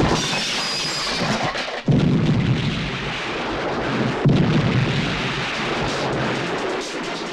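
Film sound effects of explosions: a loud, dense blast noise that flares up suddenly twice, about two seconds in and again about four seconds in, each time dying away slowly.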